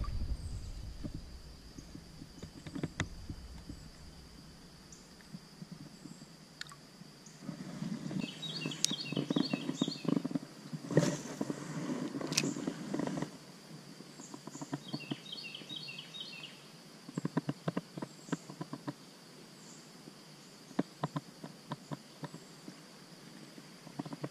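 A small bird's quick twittering call, twice, over quiet streamside ambience, with stretches of water sloshing and sharp clicks from handling and casting a spinning rod and reel; the loudest clicks come a little after the middle.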